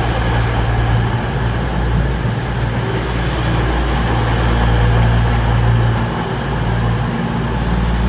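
Class 220 Voyager diesel multiple unit's underfloor diesel engines running with a steady low drone, swelling slightly midway and easing toward the end.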